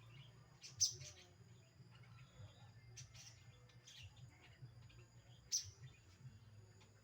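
A bird giving a few short, high chirps spaced out, the loudest about a second in and another about five and a half seconds in, over a faint steady low hum.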